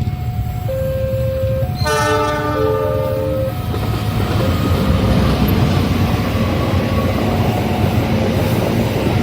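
A level-crossing alarm sounds in two alternating tones. About two seconds in, a locomotive horn blasts for about a second and a half, then a train passes with a steady rumble and clatter of wheels on the rails while the alarm keeps going underneath.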